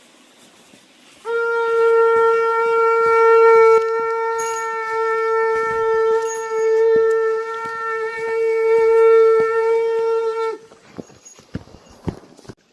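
Conch shell (shankh) blown in one long, steady note lasting about nine seconds, then cut off sharply.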